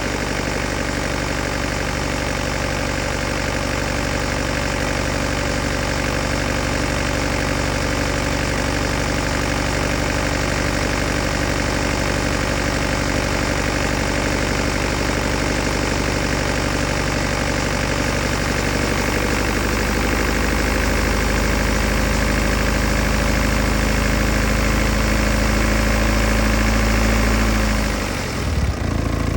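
BMW N47 two-litre four-cylinder turbodiesel idling steadily after a cold start, its low rumble growing louder about twenty seconds in and the note briefly shifting near the end. The owner is listening for timing-chain rattle, a question he leaves open.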